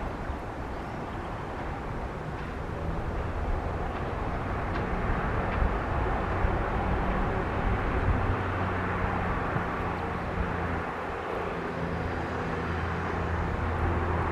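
Steady rumble of motor traffic, with a low engine hum that comes in about halfway through and slowly gets louder.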